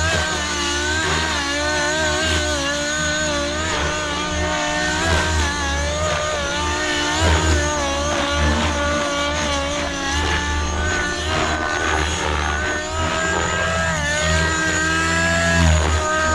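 50-class nitro engine of an XLPower Nimbus 550 Nitro RC helicopter running under flight load with a tuned pipe. Its high engine whine wavers up and down in pitch as the load changes, because the engine runs without a governor, on the pitch curve alone.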